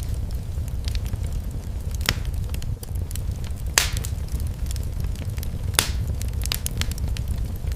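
Fire in a fireplace crackling: a steady low rumble of flames with scattered sharp pops, the loudest nearly four seconds in and another about two seconds later.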